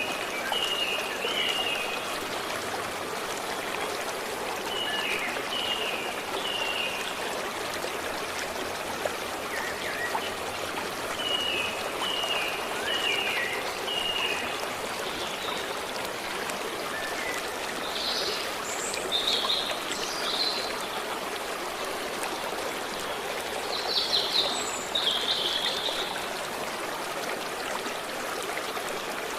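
A stream or brook flowing and trickling steadily, with birds singing over it: short runs of quick repeated notes in the first half, then louder, buzzier calls twice in the second half.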